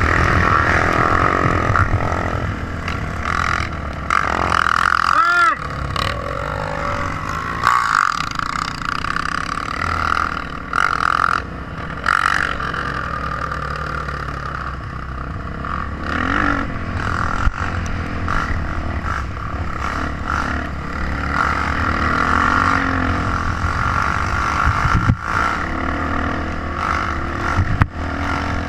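Trail motorcycle engine running under way, its note rising and falling with the throttle.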